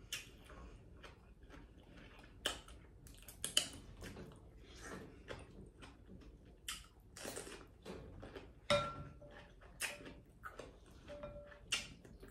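A person eating close to the microphone: chewing and wet mouth sounds, a string of irregular soft clicks and smacks.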